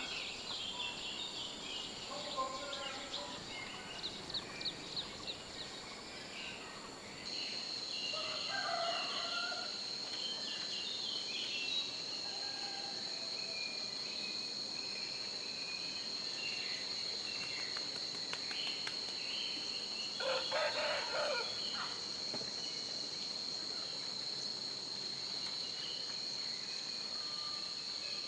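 Forest ambience of birds chirping and a steady high insect drone, which sets in about a quarter of the way through. Two-thirds of the way in, a rooster crows once, the loudest sound.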